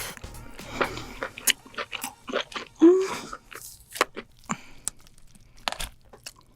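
Cooked lobster shell cracking and crunching as it is broken apart to pull out the meat: a run of sharp separate cracks and clicks, with some chewing. A short squeak-like tone sounds about three seconds in.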